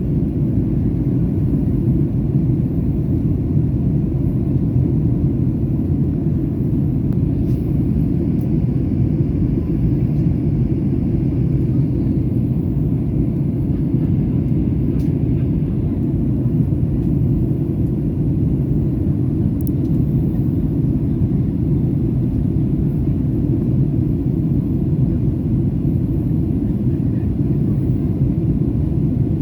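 Steady low rumble of engine and airflow noise inside the cabin of a Boeing 737-800 in flight, with a few faint clicks.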